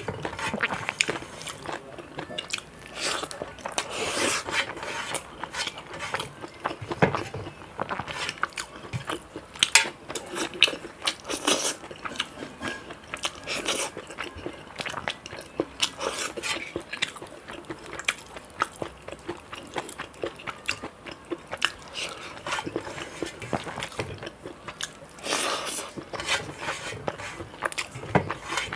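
A person chewing and crunching food with their mouth: irregular crisp bites and crunches, heavier in a few clusters, over steady chewing.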